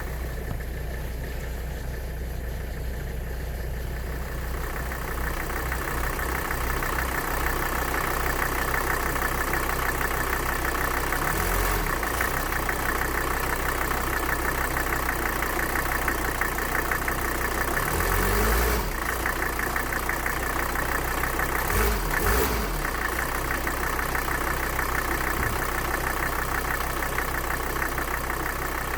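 Mercedes-Benz 300D diesel engine idling after a cold start, its speed briefly rising and falling three times: about a third of the way in, a little past halfway, and again soon after.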